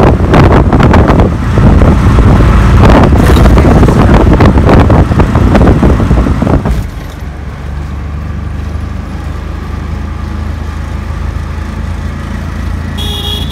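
Road-vehicle noise from an auto rickshaw ride in traffic: loud, rough noise with rattling and wind buffeting for the first part, which drops suddenly about seven seconds in to a steadier low engine drone. A short horn toot sounds near the end.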